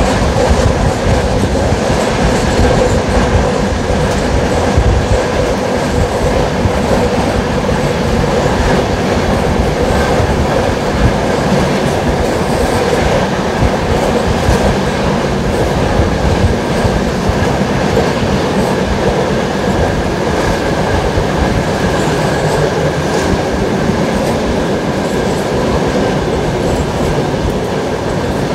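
LHB passenger coach rolling along the track: a steady rumble of wheels on rails with a light clatter and a faint steady whine over it.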